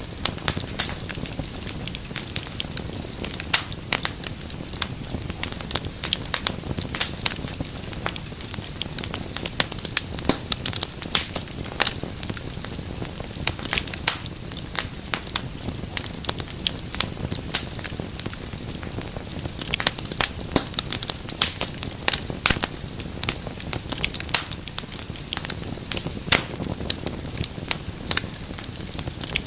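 Fire burning in a fireplace, crackling with many quick, irregular sharp pops over a low, steady rush of flame.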